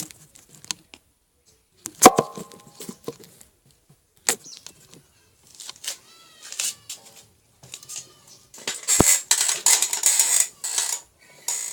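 Scattered knocks, clicks and rustling, with a brief ring of strings after a knock about two seconds in, a few faint rising-and-falling cries in the middle, and a longer burst of rustling near the end.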